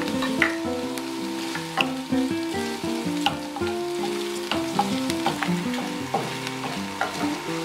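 Diced onion, sausage and meatball slices sizzling in a hot non-stick frying pan, with a wooden spatula scraping and tapping against the pan as they are stirred. Melodic instrumental music plays underneath.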